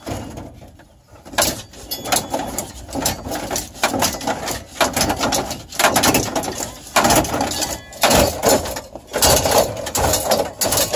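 Irregular knocking, rattling and scraping of hands and tools working on the truck dashboard's plastic and metal parts.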